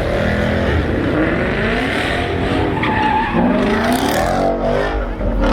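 A car's engine revving hard while its tires squeal and skid, as in a burnout or donuts; the pitch rises and falls repeatedly with the revs.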